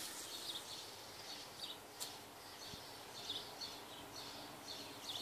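Faint outdoor ambience with a small bird chirping over and over, short high chirps coming irregularly about two or three a second. There is a single light tick about two seconds in.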